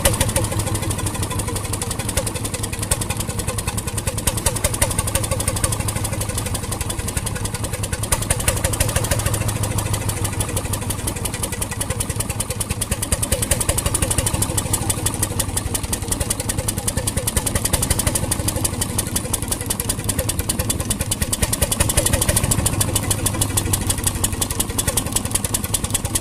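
1921 RSM 3½ HP hotbulb marine engine running steadily, with a fast, even beat of firing strokes and mechanical clatter.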